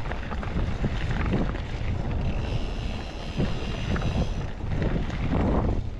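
Wind rushing over the microphone of a mountain bike riding fast down a dirt trail, with the rattle and crunch of the bike and tyres over the ground as many short clicks.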